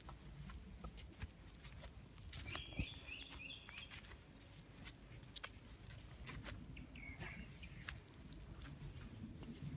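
A bird chirping faintly: a quick run of chirps about two and a half seconds in and a shorter run about seven seconds in, amid scattered clicks and taps.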